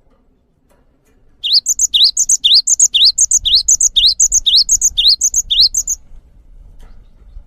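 Gelatik bird song: a string of about nine quick, high, rising whistled phrases, about two a second, that starts a second and a half in and stops about six seconds in.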